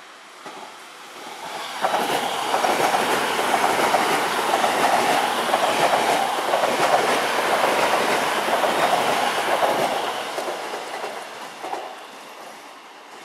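CRH2A high-speed electric multiple unit passing close by. The running noise rises sharply about two seconds in, with wheels clicking over the rail joints, and fades away over the last few seconds as the train moves off.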